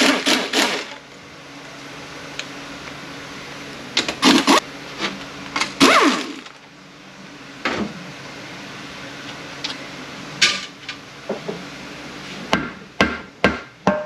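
Metal hand tools clanking and knocking in short clusters on an automatic transmission while its oil pan bolts are being removed, with a quick run of strikes near the end. A faint steady shop hum runs underneath.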